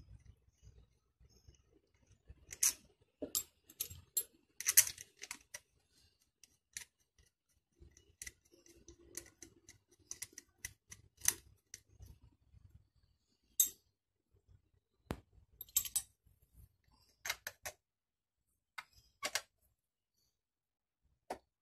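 Irregular sharp clicks and light taps, scattered singly and in small clusters, with no engine running.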